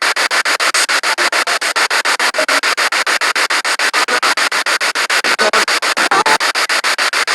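Spirit box sweeping through radio stations: loud static chopped into rapid even pulses, about nine a second, with brief snatches of broadcast sound caught between them.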